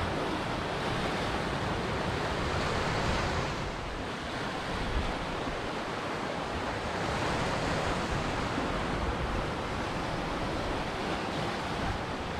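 Ocean surf: waves breaking and washing in a continuous rush, swelling about three seconds in and again around eight seconds.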